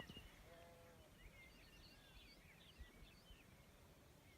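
Faint birdsong: short, quick, warbling chirps from small birds throughout, with a brief lower call about half a second in, over a low rumble of outdoor background noise.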